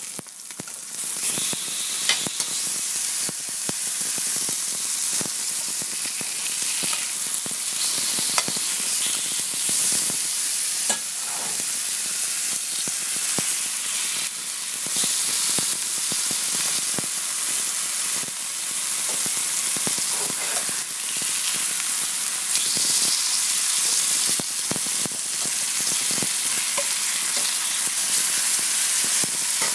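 Sausages sizzling in a frying pan: a steady hiss of hot fat with many sharp little pops and crackles.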